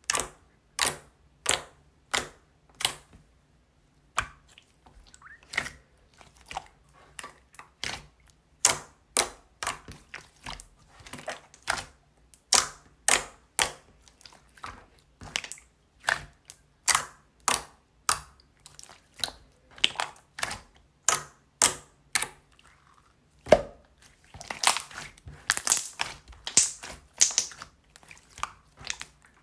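Soothing-gel slime being squished and pressed by hand, giving sharp sticky pops and clicks about once or twice a second, with a busier run of crackly squishing from about 24 to 28 seconds in.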